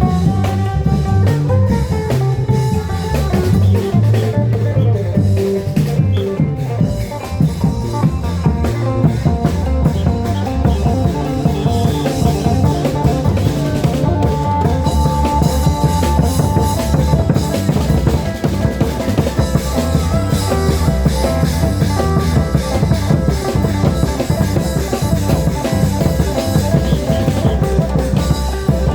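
Thai Isan long-drum (klong yao) band playing a steady, driving rhythm, with a dense beat of drums under a sustained melody line.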